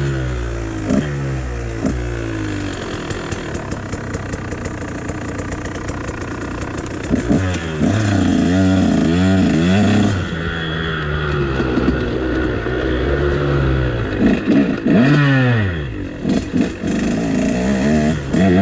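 KTM dirt bike engine revving up and down as it is ridden, the pitch repeatedly climbing and dropping through the gears, held high for a few seconds around the middle.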